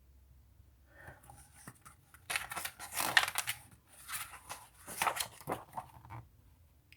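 Paper rustling and crinkling in short irregular bursts, building up about two seconds in and dying away near the end, as the pages of a picture book are handled and turned.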